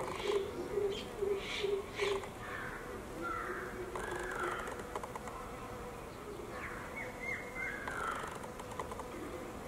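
Birds calling outdoors: a quick run of short low notes in the first two seconds, then scattered short calls that rise and fall in pitch.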